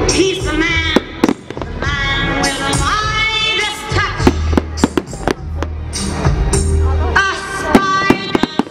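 Fireworks banging and crackling in a string of sharp reports, heard over loud music with a singing voice and a steady bass line.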